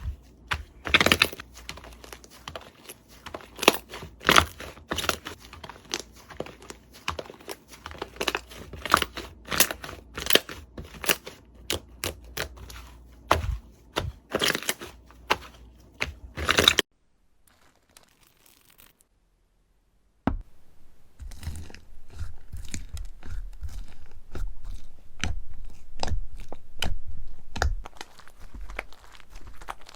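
Slime being squeezed and pressed by hand, giving many sharp crackles and crunches. The sound cuts off suddenly a little past halfway, leaving a few seconds of near silence, then a denser crackling resumes.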